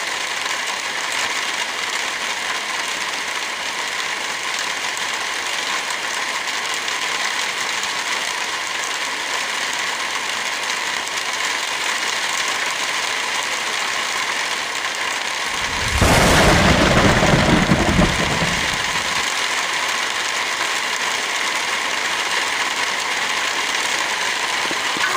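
Steady rain hiss, with a sudden deep rumble of thunder about sixteen seconds in that dies away over about three seconds.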